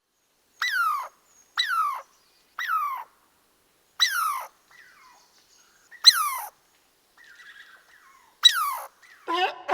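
An animal calling six times in short, high calls, each one falling in pitch, separated by pauses of one to two seconds.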